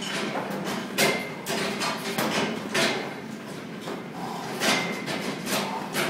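Heavy battle rope slapping the floor in repeated, uneven strokes, roughly one or two a second.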